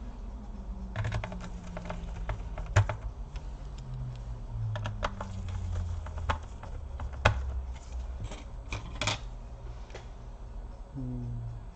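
Irregular clicks and taps of a laptop's hard plastic and metal parts being handled as the hard drive is fitted back in, with a couple of sharper knocks. A faint low wavering hum runs underneath.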